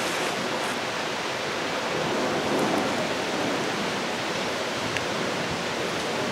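Steady rushing noise, even and unbroken, with a couple of faint ticks.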